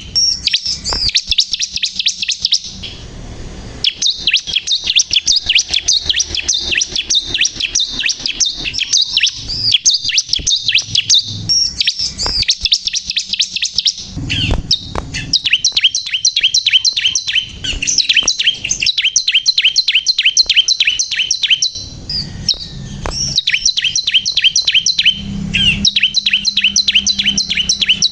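Bar-winged prinia (ciblek kristal) singing vigorously: long runs of rapid, high chirping notes repeated several times a second, broken now and then by short pauses, with a few sharp clicks among them.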